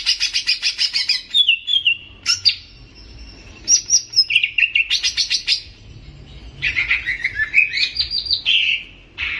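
A songbird singing loud, varied phrases: a fast trill of rapid repeated notes, then several bursts of chattering notes and short whistled slurs, broken by brief pauses.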